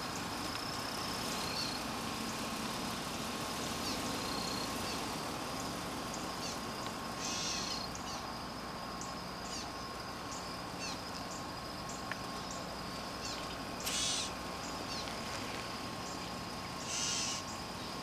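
Outdoor wildlife-refuge ambience: a steady high insect drone with many short, scattered bird chirps, and three brief hissing bursts about 7, 14 and 17 seconds in.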